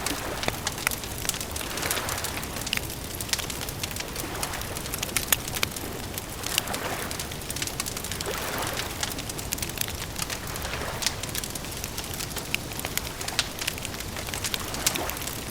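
Campfire crackling steadily with many sharp pops and snaps, over a soft hiss that swells and fades every couple of seconds.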